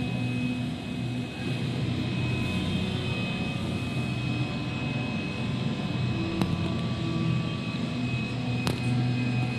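Steady low mechanical drone, like a distant engine, with two brief sharp clicks in the second half.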